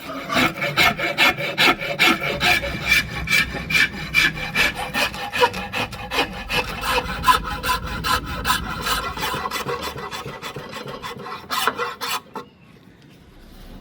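Hand file or rasp worked with quick repeated strokes, each a short scrape with a faint ringing tone, stopping abruptly about twelve seconds in.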